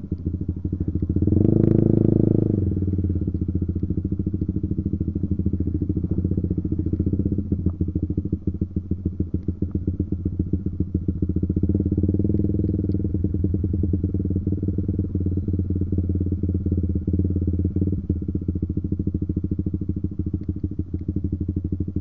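Honda CBR150R's single-cylinder four-stroke engine running at low speed, its rapid firing pulses heard close up. It revs briefly about a second in and picks up again around the middle.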